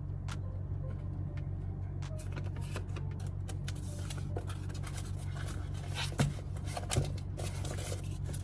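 Light scraping and small clicks of hand tools working on an iPad, with two sharper clicks about six and seven seconds in, over a steady low hum.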